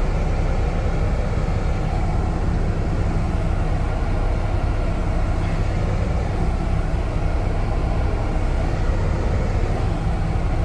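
Semi-truck diesel engine running steadily, a low even rumble heard from inside the cab.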